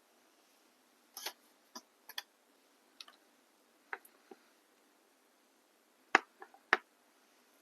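A series of irregular short, sharp clicks and taps, about ten of them, the two loudest near the end.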